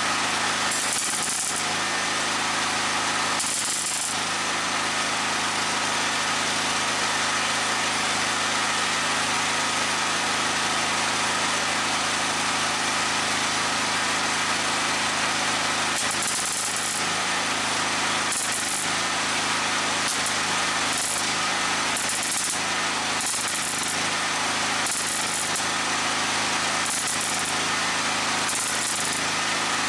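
MIG welder plug welding sheet steel: a steady buzzing crackle that starts abruptly, with short higher hissing flare-ups, several close together in the second half.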